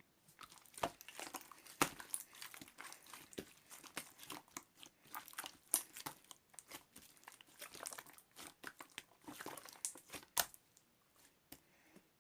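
Clear blue slime being squished and worked by hand, giving a dense run of crackling, clicking pops that thin out to a few scattered clicks near the end.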